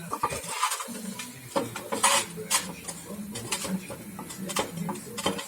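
Compressor running with an irregular metallic knocking and clatter over a steady hum: the knock being checked as a fault in the compressor.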